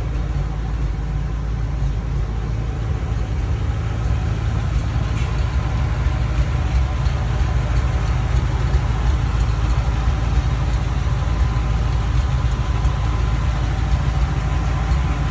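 Rebuilt Ford 8BA flathead V8 in a 1936 Ford 1.5-ton truck, fitted with headers and dual exhaust, idling steadily with a low rumble.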